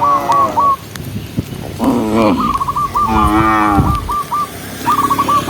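Cattle mooing, several drawn-out moos in turn, the one a little past three seconds in sliding down low. A high, quickly repeated chirping call runs over them.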